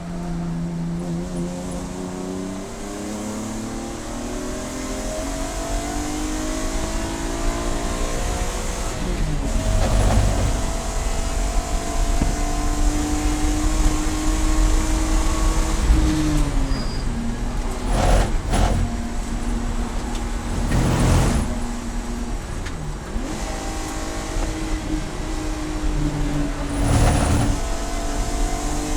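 Race car engine accelerating hard, its pitch climbing for several seconds, then holding steady at speed before dropping as it slows. A few brief sharp knocks break through near the middle and toward the end.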